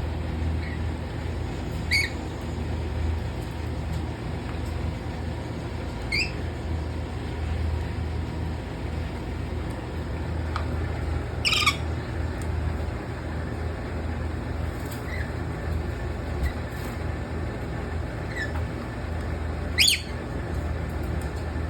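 Lory parrots giving short, sharp squawks every few seconds, loudest about halfway through and again near the end, over a steady low hum.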